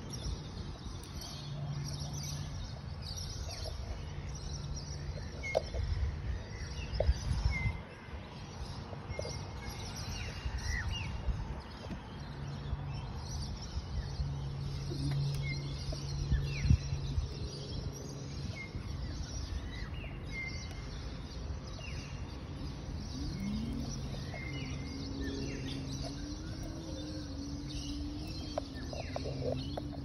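Birds chirping with short scattered calls and quick falling notes, over a steady outdoor background and an on-and-off low hum.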